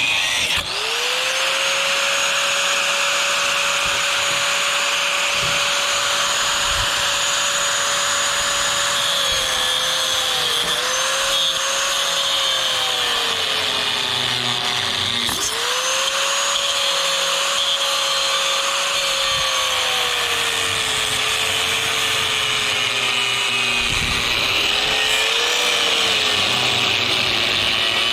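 Electric angle grinder cutting, with a loud, steady motor whine. The whine spins up at the start, and its pitch sags as the disc is pressed into the work. About halfway it stops briefly and spins up again, then bogs down slowly under load once more.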